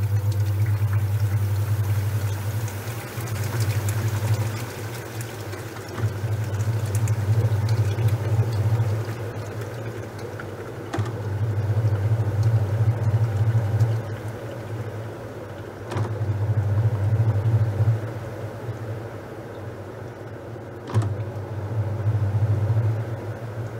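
Top-loading washing machine agitating a load of towels: its motor hums low in bouts of a few seconds, each starting with a click about every five seconds, with quieter pauses between as the wash motion switches on and off.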